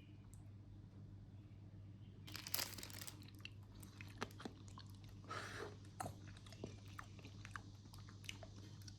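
Someone biting and chewing dry, crunchy food, with louder crunches about two and a half and five and a half seconds in and small crackling clicks between.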